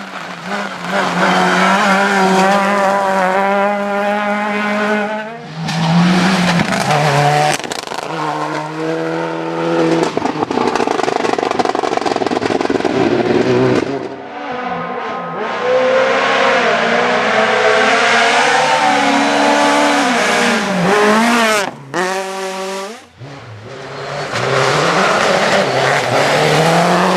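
Rally cars at full throttle, engines revving up with rising pitch and dropping back at each gear change, in a string of short clips that cut abruptly from one car to the next.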